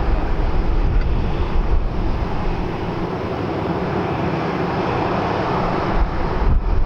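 Aircraft engines running, a steady noise.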